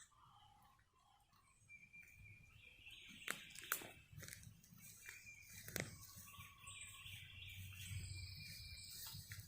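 Faint songbirds chirping and calling in woodland, with a few sharp clicks and a low rumble that grows louder toward the end.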